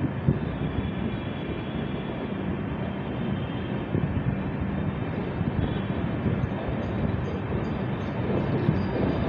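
Indian Railways express passenger train running through a station: the steady rumble of coach wheels on the rails, heard from the coach, with a few sharp knocks.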